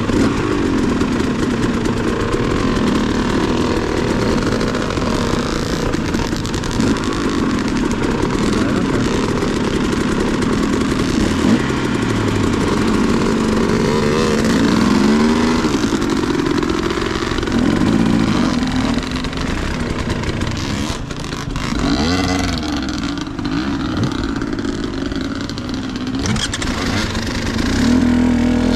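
Dirt bike engine running as it is ridden, its pitch repeatedly rising and falling with the throttle, over a steady rushing noise.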